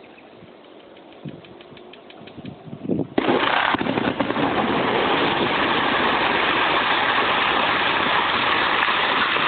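A dynamite blast goes off about three seconds in, with a sudden loud onset. It is followed by a dense, steady noise of blasted rock and debris coming down, which runs on to the end.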